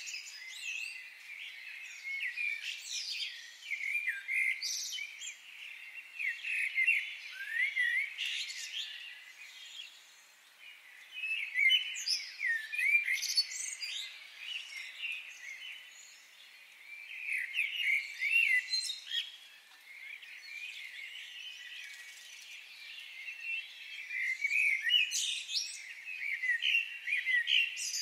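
Several birds chirping and singing over one another in bouts of a few seconds, with short, quieter lulls between them.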